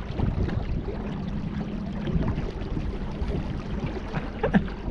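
Steady wash of river water and wind noise around a small boat under way, with a faint low hum and a couple of short clicks near the end.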